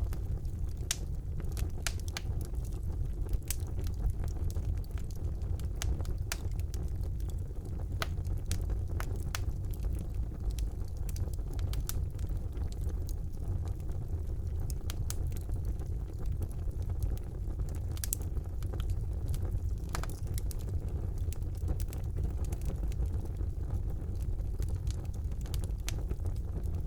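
Wood fire burning in a fireplace: a steady low rumble of the flames with frequent irregular crackles and pops of the burning logs.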